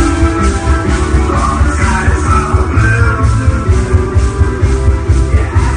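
Dance music with heavy bass and a steady beat, played loud through a paredão car sound system.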